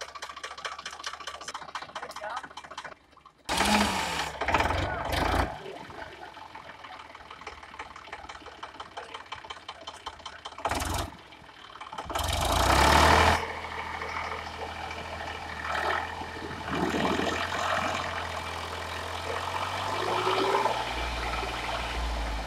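Indo Farm 3035 DI tractor's diesel engine running steadily, with two louder stretches about four seconds in and about twelve seconds in, while the tractor is worked to get it out of a muddy paddy field where it is stuck.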